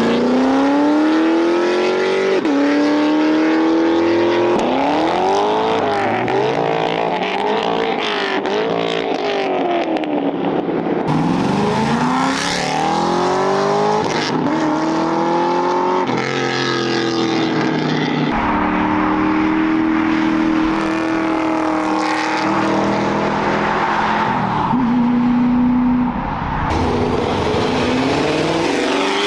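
Modified cars' engines revving hard and accelerating away one after another, the engine pitch climbing and dropping over and over through gear changes and throttle lifts.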